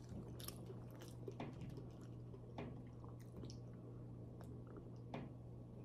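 Faint close chewing and wet mouth sounds of a person eating spaghetti, with scattered small clicks, over a low steady hum.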